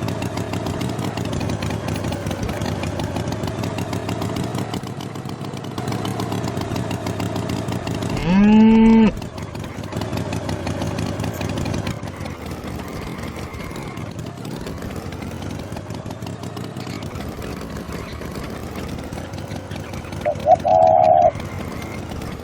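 A cartoon cow's single long moo, rising at its start, over a steady engine-like rumble from a tractor. A short higher-pitched call sounds near the end.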